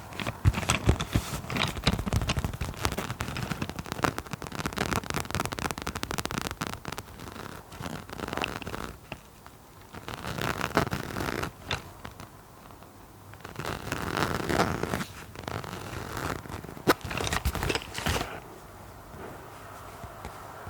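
Close-miked ASMR triggers: rapid, irregular tapping and scratching on objects, in clusters with short pauses, stopping about eighteen seconds in.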